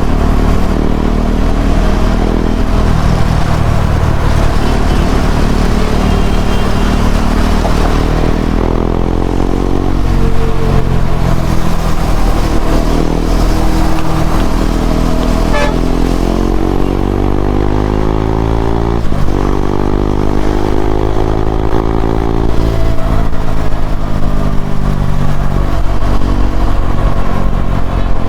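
KTM Duke 390's single-cylinder engine running through an Akrapovic slip-on exhaust while riding. The engine pitch climbs and drops several times as the bike accelerates and slows, with a sudden break in pitch about two-thirds of the way through.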